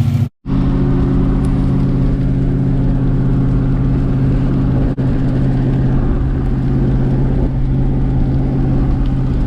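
Car driving: a steady engine drone with road noise, with a split-second dropout just after the start.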